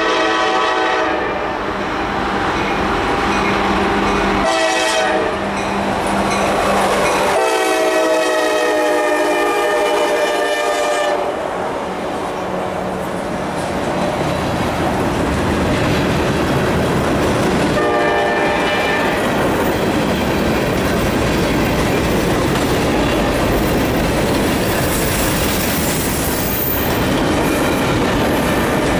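Freight train led by an EMD SD70M diesel locomotive passing and sounding its air horn in several blasts: one ending about a second in, a short one a few seconds later, a long blast of about four seconds, and another short one near the middle. Between and after the blasts, diesel engine rumble and the wheels clacking over the rail joints as the cars roll by.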